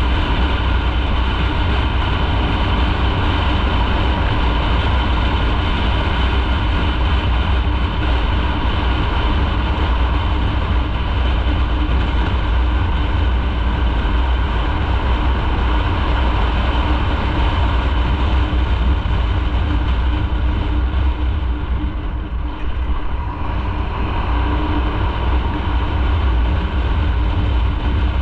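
Motorcycle riding along at speed: the engine running steadily under heavy wind rumble on the microphone. The level dips briefly about twenty-two seconds in.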